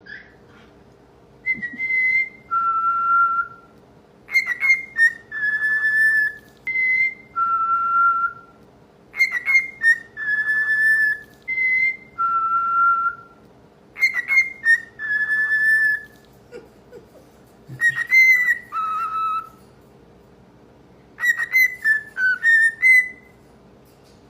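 Male cockatiel whistling its song: the same short phrase of clear whistled notes, stepping between a higher and a lower pitch, repeated over and over with short pauses between.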